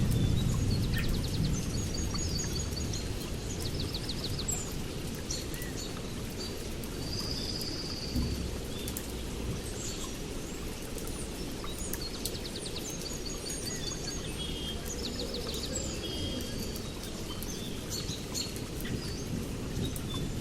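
Birds singing in short repeated trills and chirps over a steady low rumble of rain and distant thunder.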